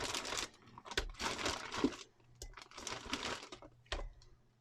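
Crinkling, crunching handling noise in a few short bursts, with sharp knocks about a second in and near the end, as rebatch soap is measured out and broken up by hand.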